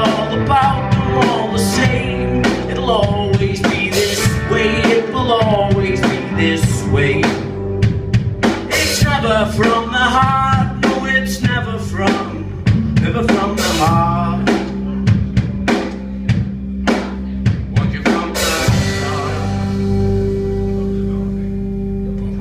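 Live rock band playing, with drum kit hits driving a bending melodic line, finishing on a cymbal crash and a held chord that rings out near the end.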